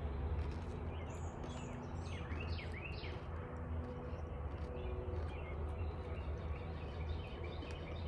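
Small birds chirping in short calls, a cluster about one to three seconds in and fainter calls later, over a steady low rumble.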